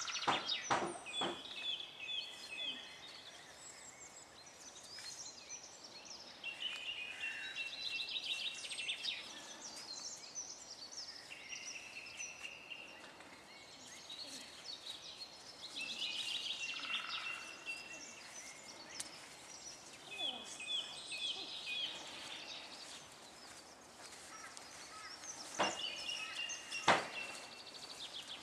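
Songbirds singing repeated trilled phrases throughout. A few sharp knocks come near the start and twice near the end.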